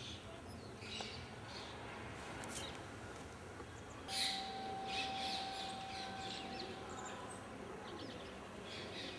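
Open-air ambience with small birds chirping in short high calls, busiest and loudest about four to five seconds in, over a steady background hiss. A faint steady tone is held for a couple of seconds in the middle.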